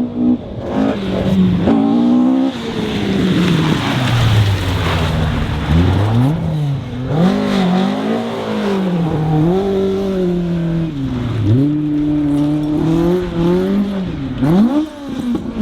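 Rally car engine being driven hard, its note climbing and dropping again and again through gear changes and lifts. A few seconds in, a rush of noise rises over the engine for a few seconds.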